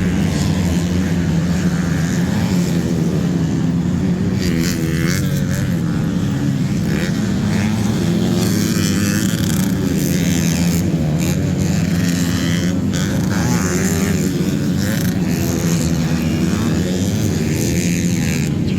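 Motocross bike engines running on a grasstrack race, their pitch rising and falling as the riders rev and ease off.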